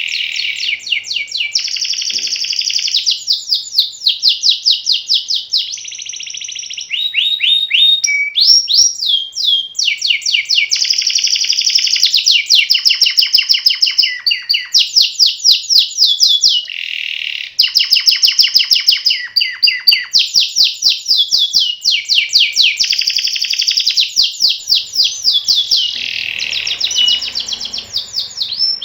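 Domestic canary singing an unbroken song of fast trills and rolls, high and loud, each phrase a rapid run of repeated notes that changes every second or two.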